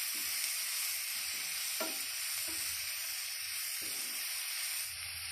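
Chopped onions and capsicum with spices sizzling in hot oil in a pan while a spatula stirs them, with several short scraping strokes over the steady sizzle.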